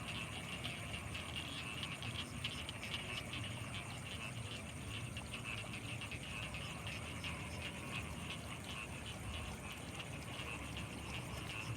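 Frogs calling in a dense chorus of rapid pulsing croaks, over a steady high-pitched whine and a low rumble.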